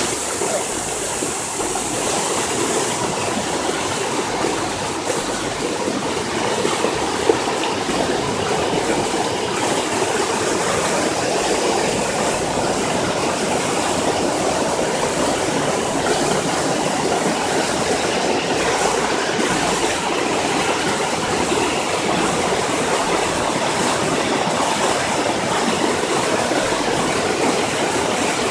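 Floodwater rushing steadily and loudly, with one short click about seven seconds in.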